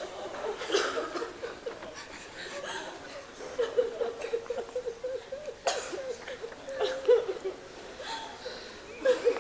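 A man weeping, his voice breaking into strained, wavering sobs with sharp intakes of breath.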